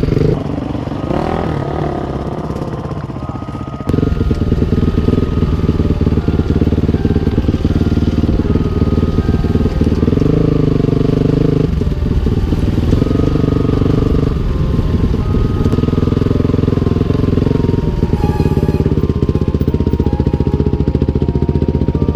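Dirt bike engine running while riding. It is quieter for the first few seconds, then comes up louder about four seconds in and holds steady.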